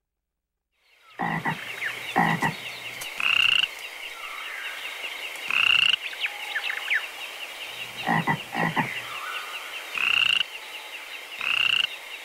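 Frogs calling in chorus, starting about a second in: loud croaks every one to two seconds over a steady, high-pitched trilling chorus.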